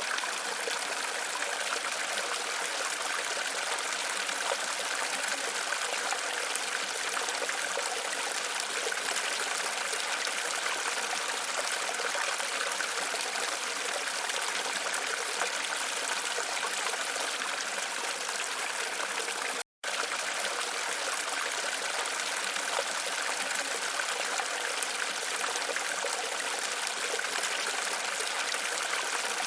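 Waterfall running steadily, an even rush of falling water with no change in its flow. It cuts out completely for a split second about twenty seconds in.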